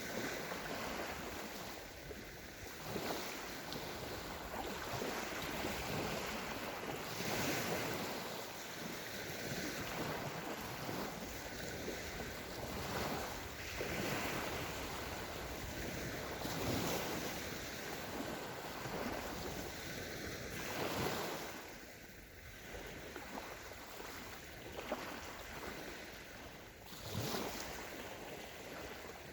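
Small sea waves breaking and washing up a sandy shore, a swell of surf every few seconds between steadier wash, with some wind buffeting the microphone.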